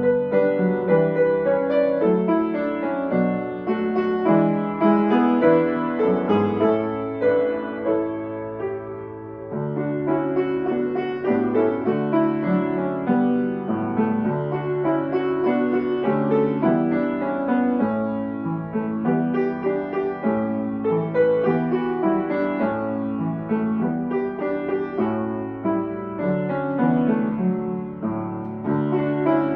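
Solo piano music playing: a steady stream of notes over low bass notes.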